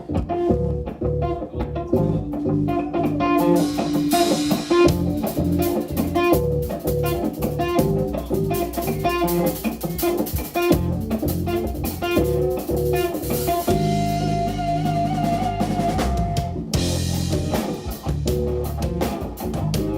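Live jazz-rock band playing: electric guitar lead over bass guitar and drum kit with cymbals. A bit past the middle the guitar holds one long, wavering note, and the cymbals drop out briefly before the drums come back in.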